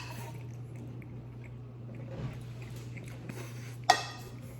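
Quiet room noise with a steady low hum and one sharp click about four seconds in.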